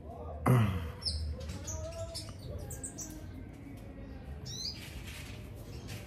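A sharp knock about half a second in, then cage birds chirping: short, high, down-slurred chirps in two clusters, near the start and again around the fifth second.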